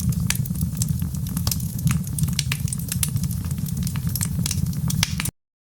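Wood fire burning in a fireplace, crackling with many sharp pops and snaps over a low steady rumble; the sound cuts off suddenly near the end.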